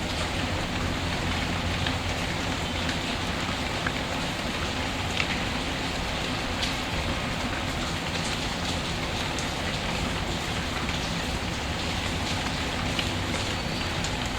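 Steady rain falling, with a few sharp pops from a crackling wood fire scattered through it.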